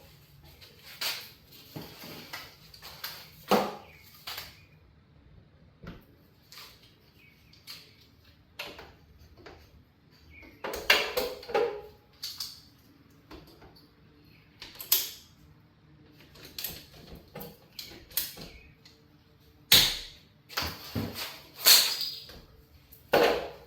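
Irregular knocks, clicks and scrapes of hands and tools working on a water heater's plumbing connection, with short quiet gaps between them.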